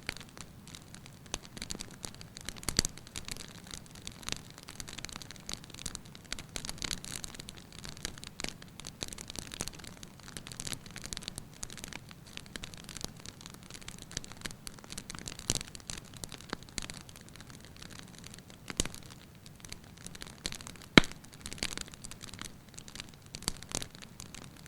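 Wood fire crackling in a fireplace: a continuous run of small irregular crackles with a few louder pops, the sharpest near the end.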